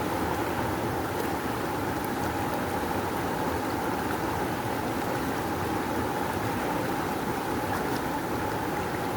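Rushing river water flowing strongly in a steady, even roar-like wash of noise, with no pauses or changes.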